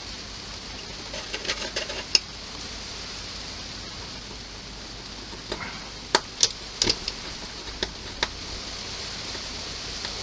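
Light clicks and taps of small plastic model-kit parts being handled, in two clusters: one about a second in and another from about five and a half to eight seconds, over a steady hiss.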